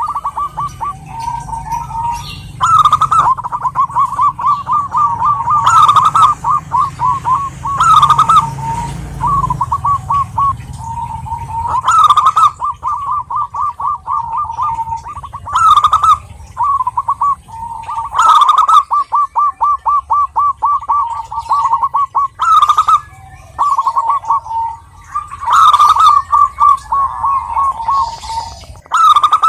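Zebra doves (perkutut) singing. They give run after run of rapid, stuttering cooing notes with hardly a pause between phrases, and each phrase opens on a louder, higher note.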